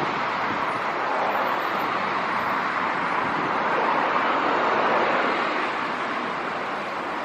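Jet aircraft engines heard from a distance, a steady rushing noise that swells a little midway and eases toward the end.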